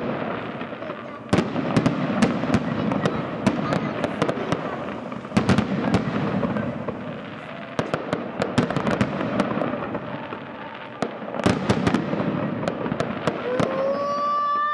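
Fireworks display: many sharp bangs and crackles from aerial shells and rising rockets going off in quick succession. Near the end a whistling firework starts up, a steady high whistle with overtones.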